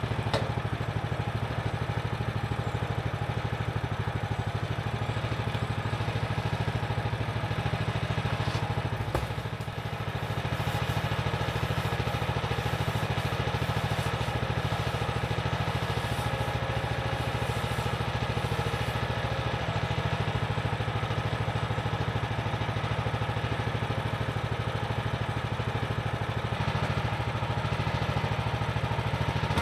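Portable bandsaw sawmill's engine running steadily at an even speed, dipping briefly about a third of the way in.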